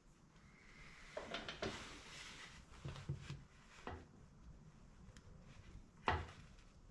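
Light clicks and knocks of tools and parts being handled during bike suspension work, with a rustle about a second in and a sharper single knock near the end.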